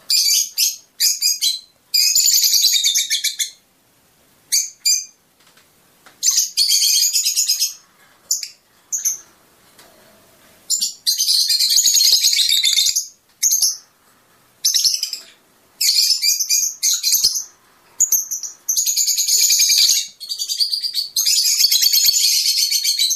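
Fischer's lovebird chirping in fast, high-pitched twittering phrases of a second or two, broken by short pauses.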